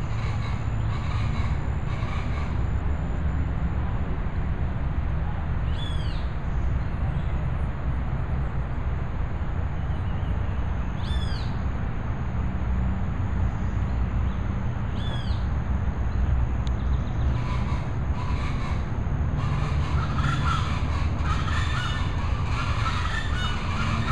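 Steady low outdoor rumble, with a bird giving three short, arched calls several seconds apart and more bird chatter near the end.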